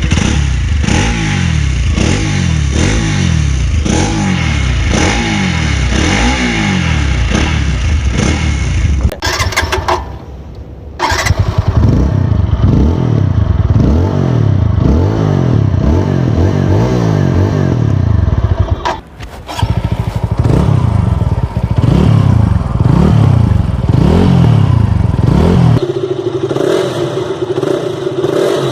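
Exhausts of single-cylinder sport motorcycles revved one after another, each blipped up and down over and over, about one rev a second. The sound cuts to a different bike twice, and near the end a bike settles to a steady idle.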